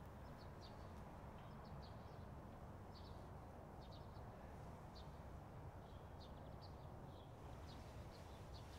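Near silence: a faint steady low rumble of outdoor ambience with scattered faint, short bird chirps.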